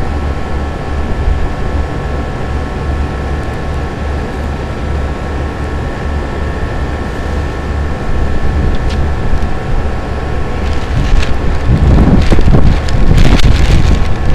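A steady mechanical drone with a low rumble and several constant tones, mixed with wind buffeting the microphone. The wind noise grows louder and rougher from about eleven seconds in, with a few knocks from handling.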